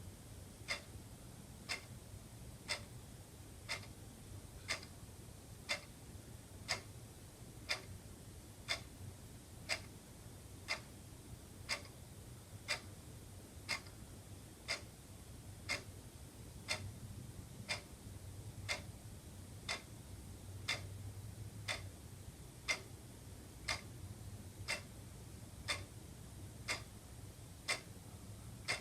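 Wall clock ticking, with steady, evenly spaced sharp ticks.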